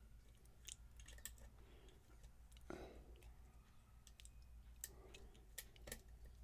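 Faint, irregular small clicks of a lock pick and tension tool working inside a lock, with a soft rustle about three seconds in.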